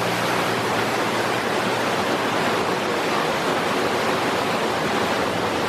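Waterfall pouring steadily, an even rush of falling water; a few low sustained notes of background music die away in the first second.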